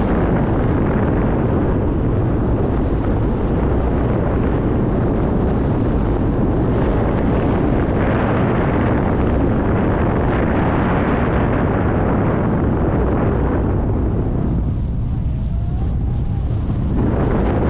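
Loud, steady wind rumble buffeting the microphone, as on a moving boat at sea; the hiss thins out for a moment near the end.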